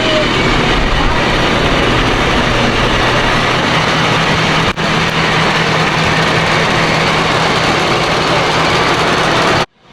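Motor vehicle engine running steadily, with a dense rushing noise over a low steady hum.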